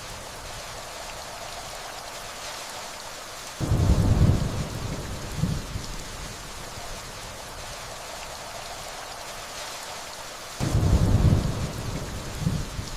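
Steady rainfall with distant thunder. Two low rumbles of thunder, one about three and a half seconds in and one about ten and a half seconds in, each start suddenly, last about two seconds and swell once more as they fade.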